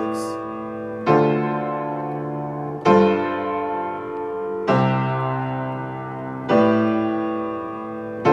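Piano playing a slow chord progression in C, the teacher's highlife 1-6-2-5-4 chord combination. A new chord is struck about every two seconds and left to ring and fade.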